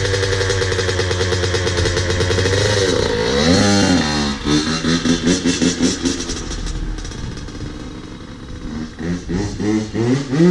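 Dirt bike engine running steadily at first, then revved in a string of quick throttle blips from about four seconds in, easing off, and blipped again near the end.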